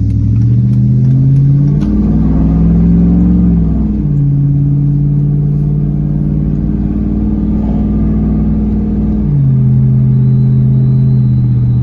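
Ram 1500's 5.7 Hemi V8 with its muffler and resonator deleted, heard from inside the cab while driving. The deep exhaust note runs loud and steady, its pitch stepping up about two seconds in, then down near four seconds and again near nine and a half seconds.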